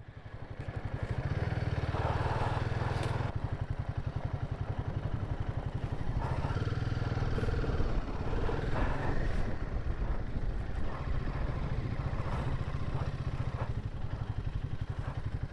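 Royal Enfield Himalayan 450's single-cylinder engine running as the motorcycle is ridden, a steady low pulsing note with a hiss of wind and road noise over it.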